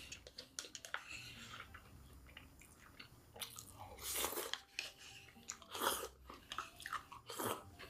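Close-up crunching and chewing of crispy fried chicken, with irregular crackles and several louder crunchy bites, about 4, 6 and 7.5 seconds in.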